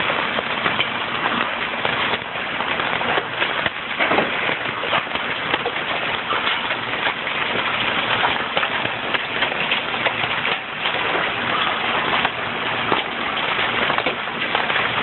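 Hail pelting down, a dense, steady clatter of many small impacts.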